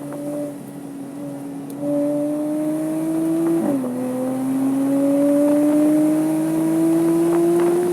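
Porsche 987.2 Cayman S 3.4-litre flat-six pulling hard under acceleration. It runs steadily for about two seconds, then gets louder and climbs in revs. The revs fall sharply at an upshift just under four seconds in, climb again, and drop at a second upshift at the end.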